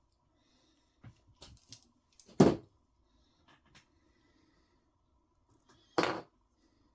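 Small RC car parts handled on a workbench: a few light clicks, then two louder, short clacks about three and a half seconds apart as plastic bushings are popped out of an aluminum steering bell crank.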